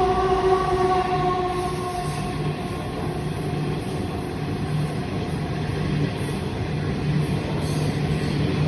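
Freight train loaded with coal rolling past, a steady rumble of wagon wheels on the rails. A steady tone fades out in the first couple of seconds.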